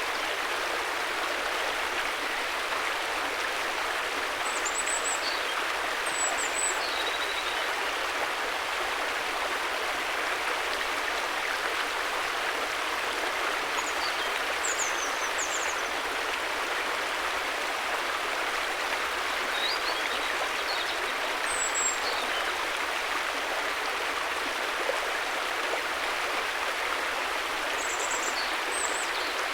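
River water rushing steadily in an even, unbroken flow. A few brief high chirps come through over it several times.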